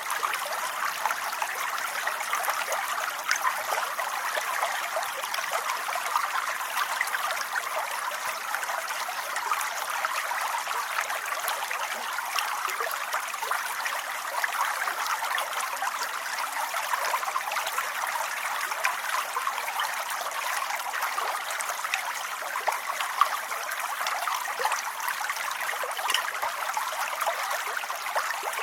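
Steady rain falling: a continuous even hiss with fine, close-packed patter of drops.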